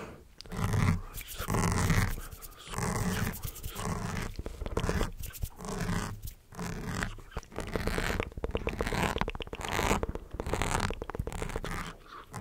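Close-miked ASMR mouth sounds: a string of about a dozen short, wet, clicky bursts with a low rasp, coming roughly once a second.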